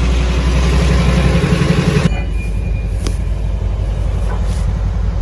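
Big diesel truck engine running hard, then easing off about two seconds in to a lower, steady rumble.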